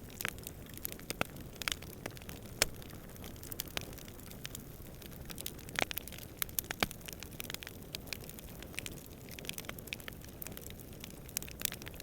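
Wood campfire crackling, with irregular sharp pops and snaps over a steady low rumble of flame and distant wind; the loudest pop comes about two and a half seconds in.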